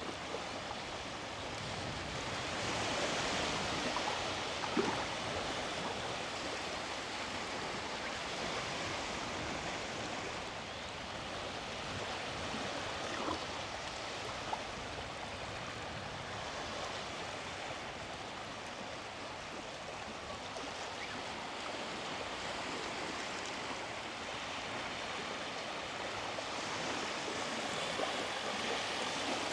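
Small sea waves washing onto the beach: a steady hiss of surf that swells about three seconds in and again near the end.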